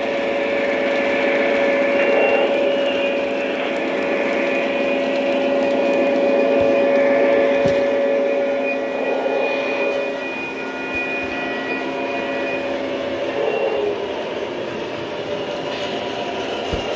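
Lionel model train running around its track: a steady electric-motor whine with rolling rattle, the main tone fading about nine seconds in, and a few sharp clicks from the wheels on the rails.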